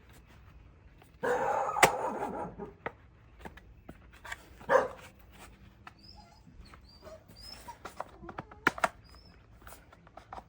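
A dog barking: a loud burst about a second in and another shorter one near five seconds. Sharp clicks and knocks from the recoil starter being handled and pressed into place on the lawnmower follow near the end.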